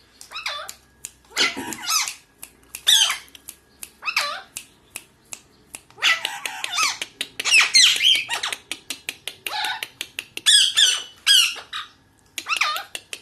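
Pet parrots squawking over and over, harsh pitch-bending calls every second or so that crowd together into a near-continuous run a few seconds in, with short clicks between the calls.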